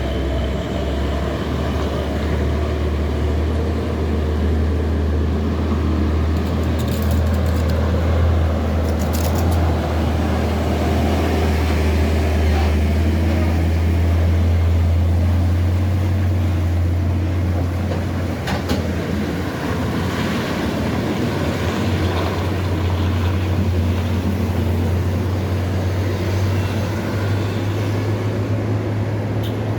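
Steady low vehicle drone with road noise, joined by a few brief clicks.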